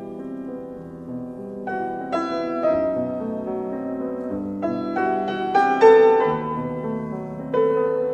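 Background piano music: single piano notes struck one after another and left to ring, a slow, gentle melody.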